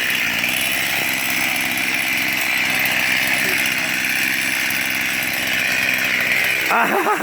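Chainsaw engine running at a steady speed, without revving up or down.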